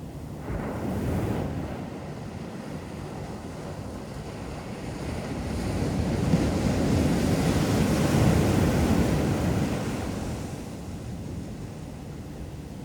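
Ocean surf breaking on a beach: a small wave washes in about half a second in, then a larger wave builds, breaks and washes up over several seconds in the middle before dying back.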